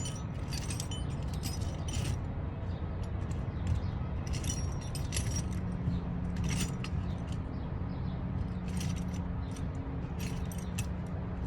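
Small metal hand tools and sockets clinking against one another in bursts, as in rummaging for the right-size socket, over a steady low hum.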